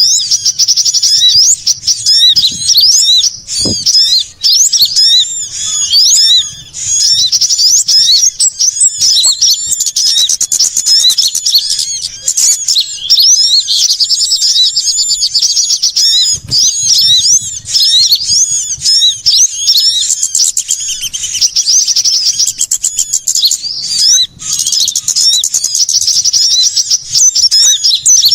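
A dense chorus of many small songbirds giving agitated, rapid high-pitched chirps and trills that overlap without a break: a lure call meant to draw small birds in.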